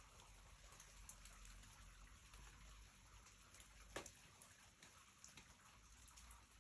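Faint, steady hiss of light rain with scattered raindrops ticking, and one sharper drip about four seconds in.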